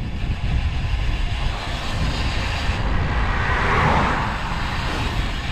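Wind rumbling on the microphone of a cyclist riding a road bike. A rushing sound swells to a peak about four seconds in and fades.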